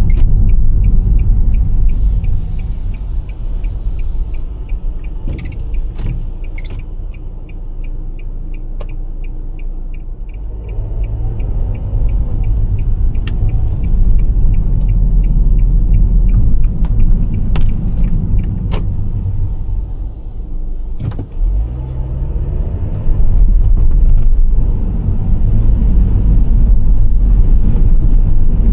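Nissan Serena C25 minivan on the road: a steady low rumble of road and engine noise that eases off for several seconds, then builds up again. Scattered sharp clicks and knocks run through it, with a fast faint even ticking in the first several seconds.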